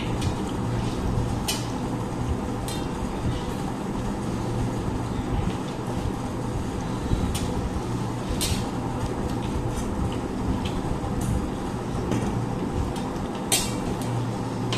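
Eating sounds at a meal: a few short, sharp clicks and taps from the plates and the eating, spaced a second or more apart, over a steady low hum.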